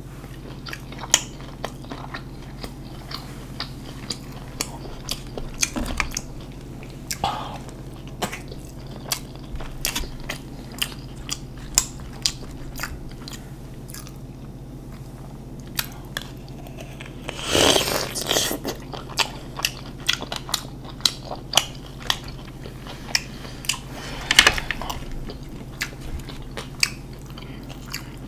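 Close-miked eating of a Cajun seafood boil: wet chewing and lip smacking with frequent sharp mouth clicks. There is a longer, louder wet burst about two-thirds of the way through and another shorter one later.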